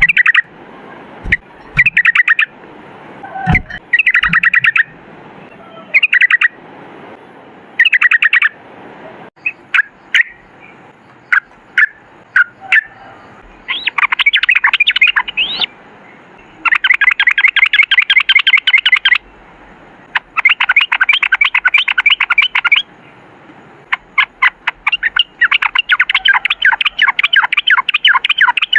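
Yellow-vented bulbul (trucukan) singing a fast, rattling run of repeated notes. It gives short phrases at first, then longer unbroken runs of two to five seconds in the second half.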